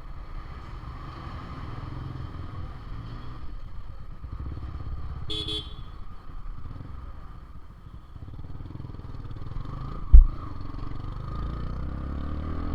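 Motorcycle engine running steadily while riding along the road. A vehicle horn beeps briefly about five seconds in, and a single sharp low thump stands out about ten seconds in.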